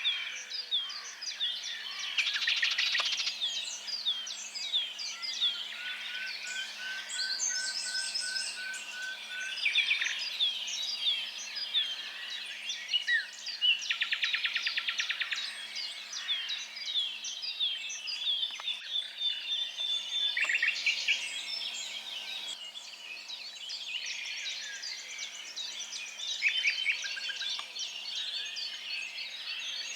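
Several songbirds singing at once: a busy mix of chirps, whistles and fast trills, with one bird repeating a short note about ten times in a row near the middle.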